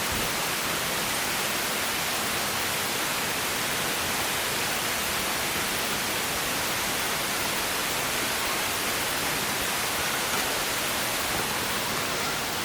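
Beef steak sizzling on a hot iron griddle plate over a campfire: a steady, even hiss.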